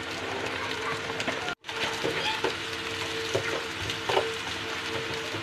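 Chopped green beans frying with onion in hot oil in a kadhai, sizzling steadily while a spatula stirs and scrapes against the pan. The sound drops out briefly about a second and a half in.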